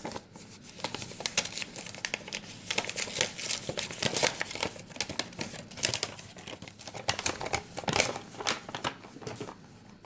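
Crinkling and tearing of packaging as a small gift package is unwrapped by hand, in irregular crackly bursts that stop near the end.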